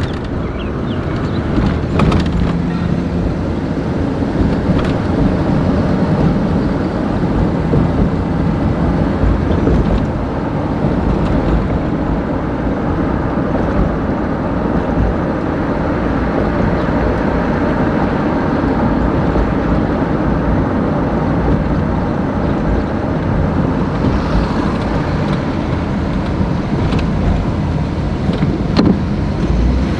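Steady low rumble of a vehicle running, with wind noise on the microphone.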